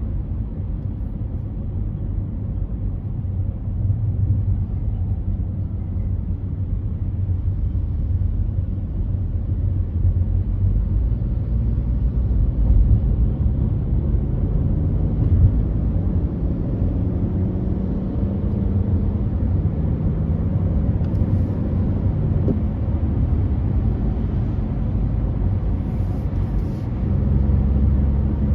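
Car driving at freeway speed: a steady low rumble of road and engine noise.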